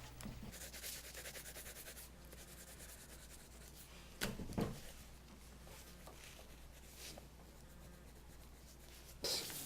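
Faint scratchy strokes of coloring on paper, rubbed back and forth in quick repeated strokes for the first couple of seconds, with a brief louder scrape about four seconds in.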